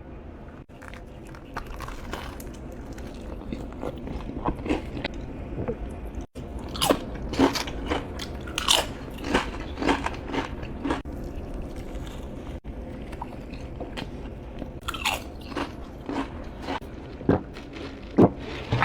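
Close-miked eating: a person biting into and chewing crunchy food, with many crisp crunches in irregular bursts, loudest in the second half, and two brief dropouts.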